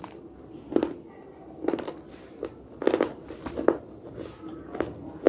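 Hard slate being bitten and crunched between the teeth, a sharp crunch about every half second, some close together in pairs.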